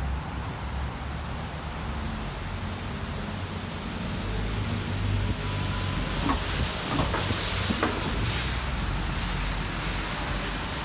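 Wet city street ambience: a steady hiss of rain and passing traffic, with wind rumbling on the microphone. A few short sharp ticks come about two-thirds of the way through.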